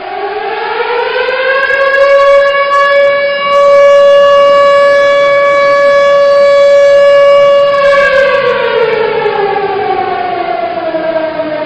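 Civil-defense warning siren sounding one long wail: it rises in pitch over the first two seconds, holds a steady tone for about six seconds, then slowly falls toward the end.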